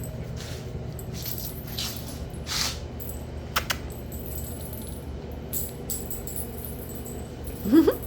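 Puppies playing: a few brief metallic jingles and two sharp clicks, then near the end a short, loud puppy yip that bends upward in pitch.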